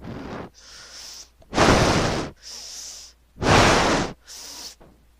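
A person breathing heavily and noisily into the microphone, with no voice. Two loud, rough breaths come about two and three and a half seconds in, with softer hissing breaths between them.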